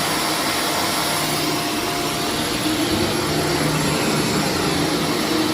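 Vacuum cleaner running steadily on carpet: an even, loud rush of air over a constant motor hum.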